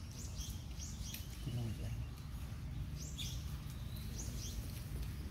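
Birds chirping in the background: several short, high, falling chirps at irregular intervals, over a steady low rumble.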